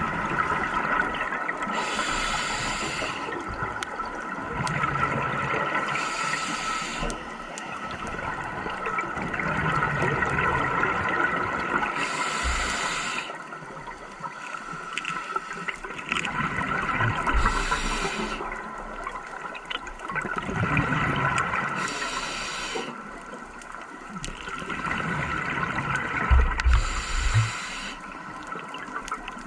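Scuba diver breathing through a regulator underwater: about every four to five seconds a burst of exhaled bubbles rushes and gurgles past, over a steady underwater hum.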